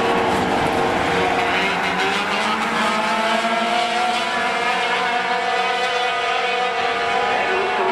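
Pack of racing sport trucks running at speed, several engine notes overlapping in a steady drone with slight rises and falls in pitch.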